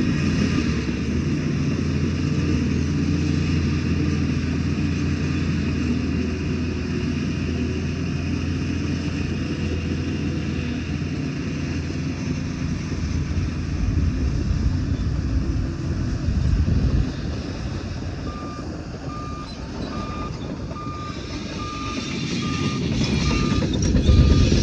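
Heavy diesel engine of earth-moving machinery running steadily. About three quarters of the way through, a reversing alarm starts beeping at an even pace, roughly three beeps every two seconds, and the engine noise swells again near the end.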